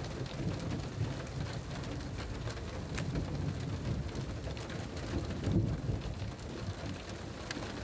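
Steady rain, with scattered sharp ticks of drops striking, over a low rumble.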